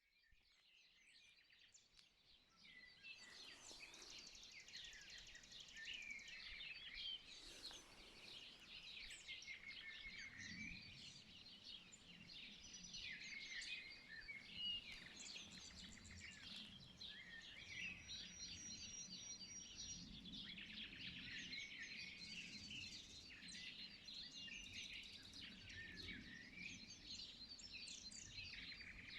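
Faint dawn chorus of many small birds chirping and singing at once before sunrise. It fades in over the first few seconds.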